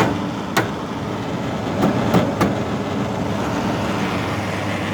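Brand-new LG air conditioner running with a steady vibrating hum, which the owner fears means the unit is dying. Several sharp knocks come over it in the first two and a half seconds as the unit is banged on.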